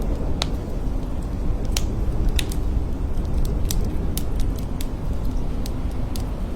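Blizzard wind blowing steadily with a deep rumble, dotted with scattered faint ticks.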